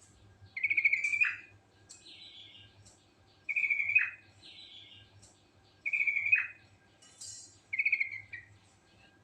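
Yellow-vented bulbul (trucuk) singing: four loud, bubbling phrases, each just under a second long and ending in a quick downward slur, come about every two seconds, with softer higher notes in between.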